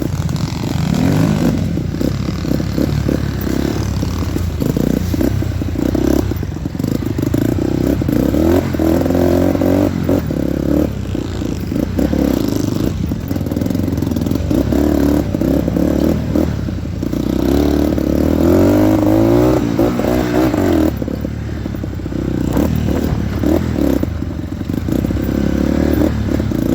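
Dirt bike engine running and revving, its pitch rising and falling again and again as it accelerates, with clattering and scraping sounds mixed in.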